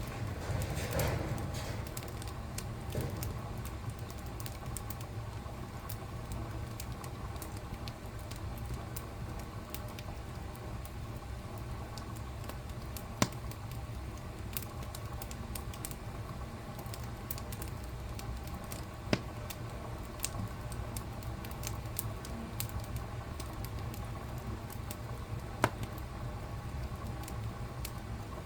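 Wood fire crackling in a fireplace: a steady low rumble of flame under a stream of small irregular crackles, with three louder sharp pops spread through.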